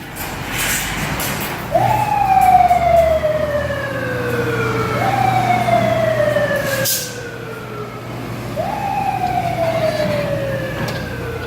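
Fire engine siren sounding three times, each time rising quickly and then falling slowly, over the truck's running engine.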